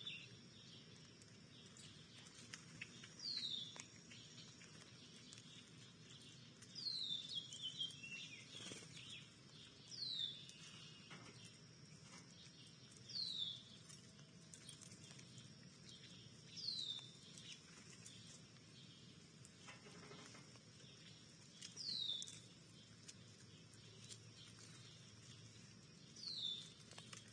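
A songbird calling faintly. It gives a single short, high note that slides downward, repeated about every three seconds, with a quicker run of notes about seven seconds in.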